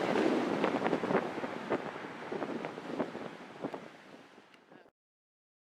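Wind buffeting the microphone: a rushing noise with irregular gusty thumps that fades out and cuts to silence about five seconds in.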